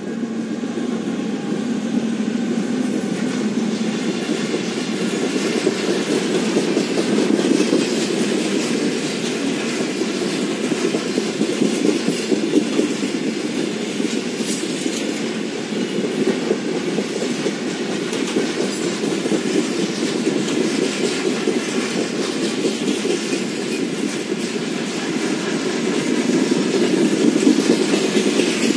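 Freight train rolling past: two Siemens ER20CF diesel-electric locomotives go by, followed by a long line of hopper wagons. There is a steady clatter of wheels on the rails.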